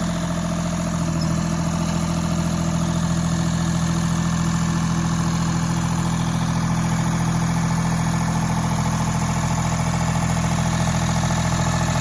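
Diesel lawn tractor engine idling steadily.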